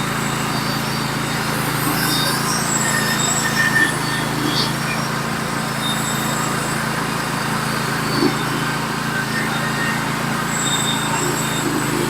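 Norwood HD36v2 portable bandsaw mill running steadily under load as its band blade cuts through a large log, skimming off the top slab, with a couple of short knocks.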